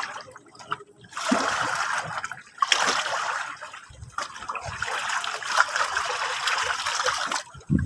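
Sea waves washing ashore: after a quiet first second, a surge of hissing, splashing water lasts several seconds before dropping away near the end.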